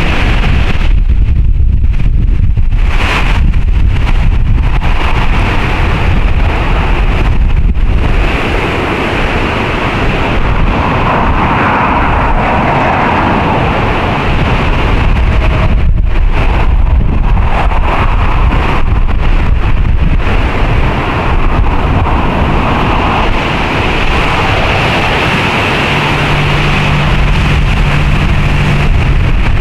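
Strong gusty wind rushing through trees, with wind buffeting the windscreened microphone as a heavy low rumble. A low steady hum joins near the end.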